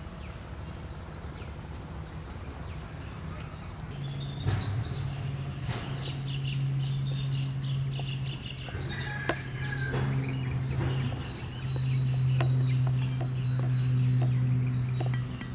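Small birds chirping and tweeting in short, high, quick calls, joined about four seconds in by a steady low hum, with a few light clicks.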